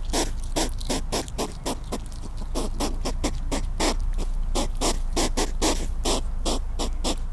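Hedgehog snuffling: rapid short sniffs, about five a second, kept up steadily.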